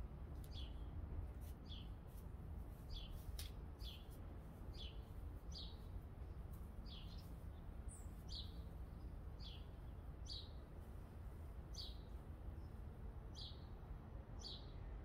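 A small bird chirping over and over, one short falling chirp about once a second, over a faint low rumble.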